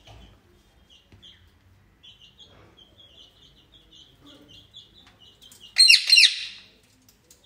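Indian ringneck parrot chattering in a long run of soft, quick, high chirps, then two loud, harsh screeches about six seconds in, from a bird that is angry and squabbling.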